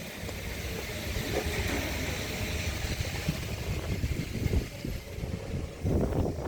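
Toyota 1NZ-FE 1.5-litre inline-four engine in a Probox running at idle during a pre-dismantling test, with uneven wind buffeting on the microphone.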